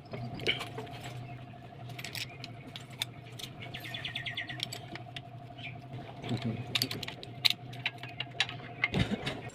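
Light metallic clicks and jangling, with a quick run of even ticks about four seconds in, over a steady low hum.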